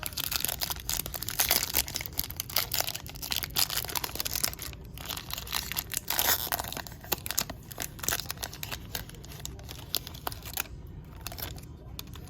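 Foil wrapper of a baseball card pack crinkling and tearing as it is handled and ripped open, a dense run of fast crackles that eases off near the end.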